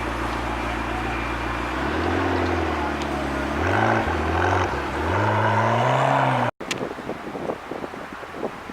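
A supercar engine runs steadily at a low note, then revs and pulls away, its pitch climbing and dropping several times as it accelerates and getting louder. It cuts off abruptly about six and a half seconds in, and a quieter, uneven noise with short spikes follows.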